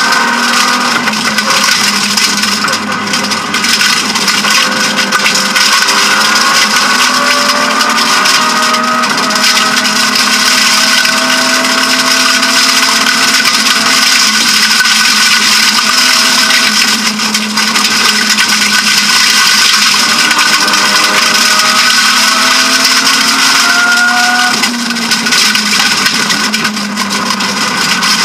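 BMW E36 M3 rally car's straight-six engine driven hard, heard inside the cabin: its pitch climbs again and again and drops back at each gear change, over a constant hiss.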